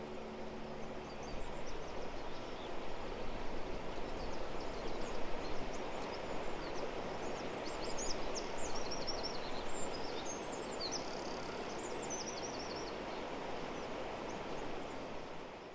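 Birds chirping and twittering in quick, high calls over a steady rushing outdoor background.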